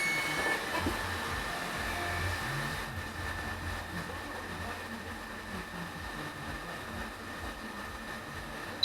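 Brushless electric motors of a Gaui MRT 840 H hexacopter running steadily in a motor test, with an even high whine over a low hum.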